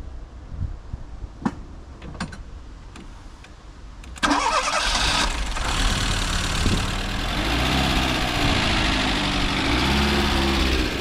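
A few light clicks, then about four seconds in a Fiat Uno Turbo i.e.'s four-cylinder turbocharged petrol engine is cranked briefly, catches and settles into a steady idle.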